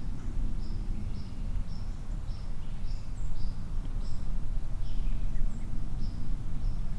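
A small bird chirping over and over, short high notes about two a second, over a steady low rumble.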